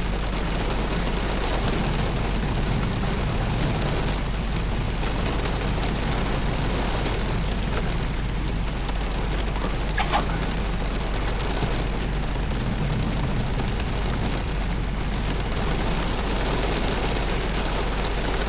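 Steady rain falling, an even hiss with a low rumble, with one short tap about ten seconds in.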